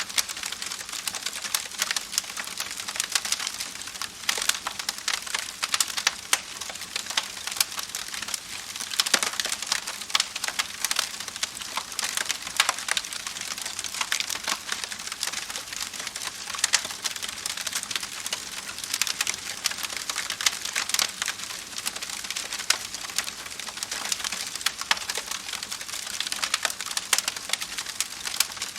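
Campfire crackling: burning wood giving dense, irregular pops and snaps over a steady hiss.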